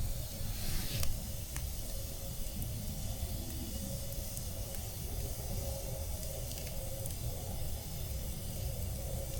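Campfire burning in a snowstorm: a steady hiss with a few sharp crackles and pops, over a low rumble.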